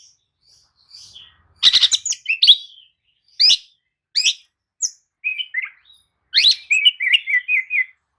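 Oriental magpie-robin (kacer) singing: loud, sharp whistled notes and quick chattering runs in separate phrases, with short pauses between them and a longer run of rapid notes near the end.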